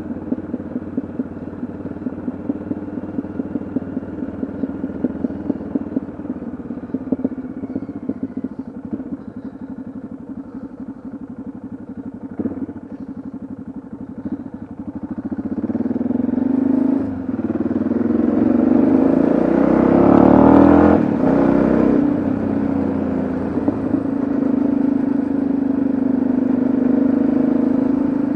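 Yamaha XT660Z Ténéré's single-cylinder engine running on the road, heard from the bike. It holds a steady, even note for the first half, then gets much louder about halfway through, with a surge of rushing noise peaking around two-thirds of the way, before settling into a steady, louder run.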